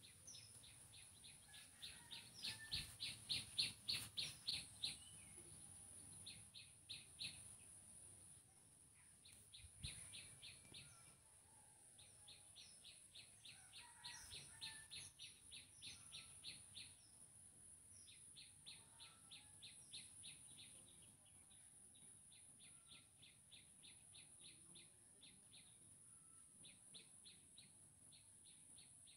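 Faint bird calls in the background: repeated runs of quick high chirps, about five a second, each run lasting a second or three, over a steady high hiss.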